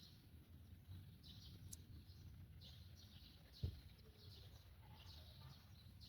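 Faint outdoor ambience: small birds chirping repeatedly in short, high calls over a low rumble, with one dull thump a little past halfway.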